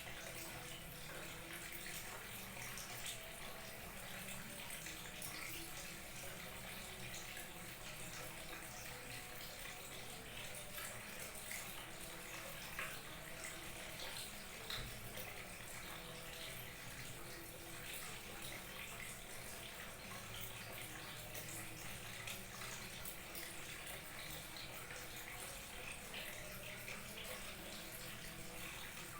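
Small waterfall trickling and splashing steadily.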